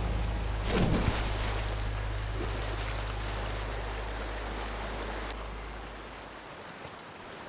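Steady rushing water noise of the sea along the shore, with a short sharp sound about a second in. A low steady hum underneath fades away near the end.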